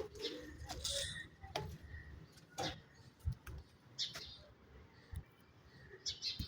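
Birds chirping in short, scattered calls, with a few sharp clicks in between.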